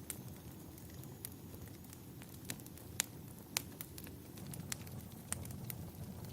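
Wood fire burning in a fireplace: a low steady rumble of flames with irregular sharp crackles and pops, the loudest about three seconds in.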